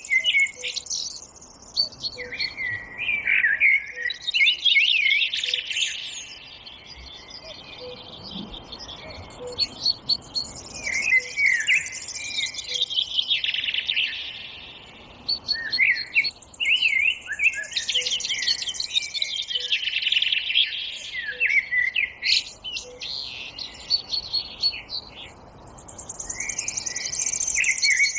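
Several songbirds singing at once in a forest, a dense mix of overlapping chirps, trills and warbled phrases, with a faint low note that repeats about every second and a half.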